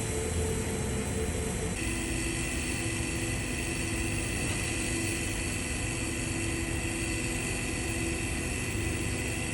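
Steady hum and hiss of welding equipment during stellite hardfacing, with held tones that shift to a different pitch about two seconds in.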